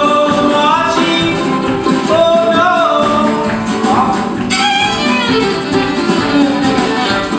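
Live band playing the instrumental close of a folk-rock song. A violin melody slides between notes over strummed guitar and bass.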